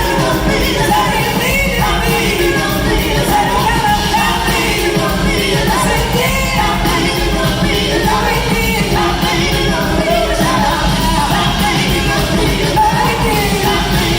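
A live rock band playing loudly, with singing.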